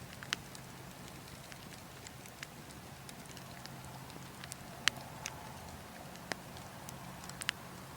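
Burning logs crackling with irregular sharp pops, a few louder ones scattered through, over a steady low rumble of wind.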